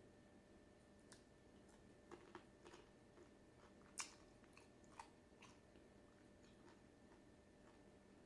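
Faint mouth sounds of a person chewing food, with a scattering of soft clicks and crunches, the sharpest about four seconds in, over a faint steady hum.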